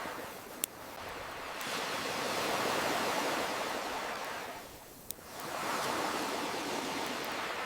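Ocean waves washing in and drawing back, one swell building and fading, then the next rising. Two sharp campfire pops cut through, one about half a second in and another about five seconds in.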